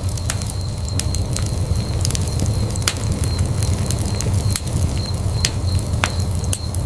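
Wood fire burning in a fireplace: a steady low roar of flame with irregular sharp crackles and pops of the burning wood, several louder pops scattered through.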